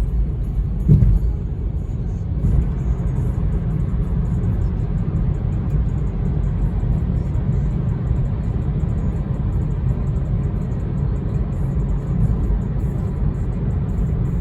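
Car driving at cruising speed, heard from inside the cabin: a steady low rumble of road and engine noise, with one brief thump about a second in.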